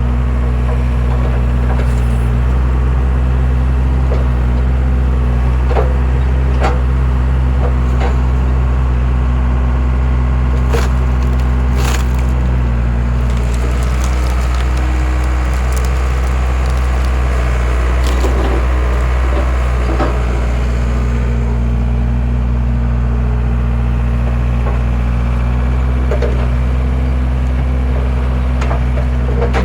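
A skid steer's engine runs steadily while its mounted wood splitter forces through logs. The wood gives sharp cracks and splintering snaps, scattered at first and thickest around the middle.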